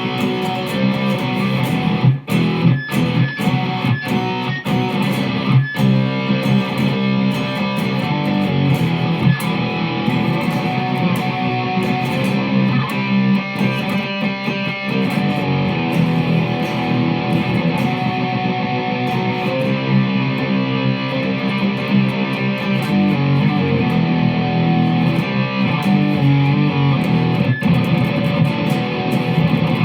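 Electric guitar being played continuously, ringing notes and chords, with a few short sharp breaks in the sound in the first several seconds.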